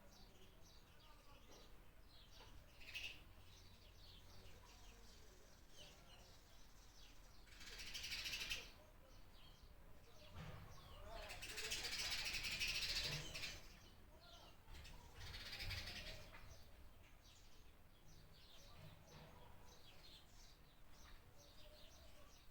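Faint chorus of small birds chirping and calling, with many short, high notes throughout. Louder swells of a dense hissing sound rise and fade three times, the longest near the middle.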